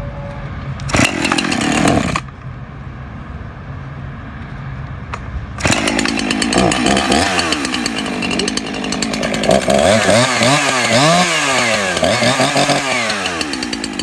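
Small electric chainsaw running. It gives a short burst about a second in, then from about five and a half seconds it runs continuously, its pitch repeatedly sagging and recovering as it bogs under cutting load.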